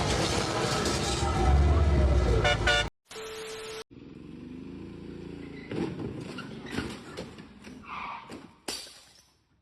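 Road vehicle sounds in several short segments joined by abrupt cuts. A loud stretch with gliding tones comes first, then a quieter passage of vehicle noise, ending in silence.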